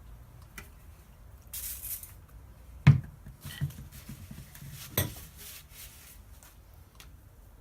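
Metal parts and tools handled on a workbench: two sharp knocks, the loudest about three seconds in and another about five seconds in, with a short scratchy hiss shortly before the first and light clicks between.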